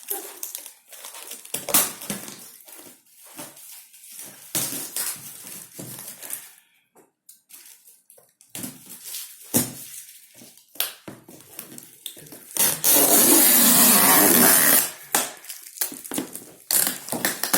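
Parcel packaging being handled and opened: scattered knocks, clicks and rustles, then about two seconds of loud, steady rasping noise a little past the middle.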